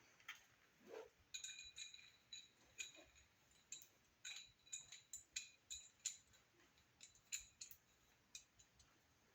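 Faint, irregular metallic clinks and rattles, each ringing briefly, as a double-roller timing chain and its sprockets are fitted onto an engine's crank and cam.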